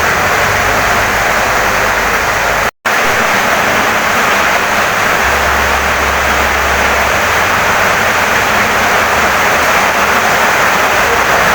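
Heavy rain pouring steadily on a wooden house, a dense even hiss. The sound cuts out completely for a split second just under three seconds in, then resumes as before.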